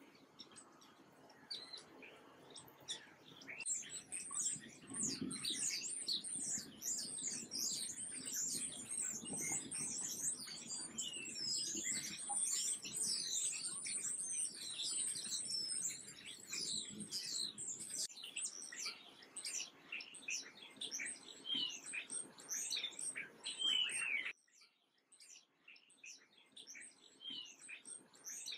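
A dense chorus of birds chirping, many short, high calls sweeping downward in pitch, one over another. It cuts off suddenly about 24 seconds in and picks up again a couple of seconds later.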